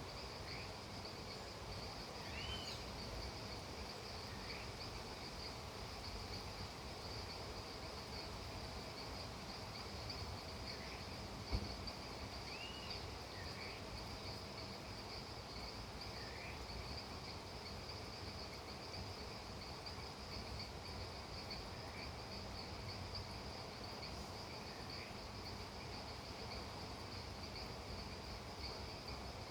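Crickets trilling in a steady, continuous high chorus, with short chirps from another small animal every few seconds. A single sharp knock sounds about a third of the way in.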